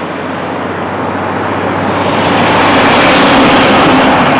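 A loud truck passing close by, its engine and road noise growing steadily louder over about two seconds and then holding at a very loud level.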